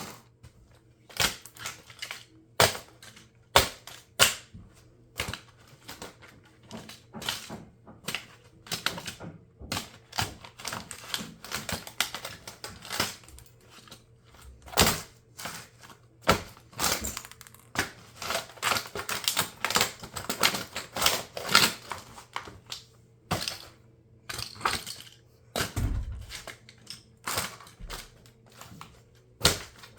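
Plastic parts of a toy RC car cracking and snapping under high heels: a long run of irregular sharp clicks and cracks, at times several a second, with a duller low thump near the end.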